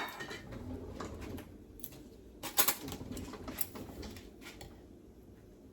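Salt being shaken from its container over corn in a pot: a click, then scattered light taps and rattles, briefly busier about two and a half seconds in, dying away near the end.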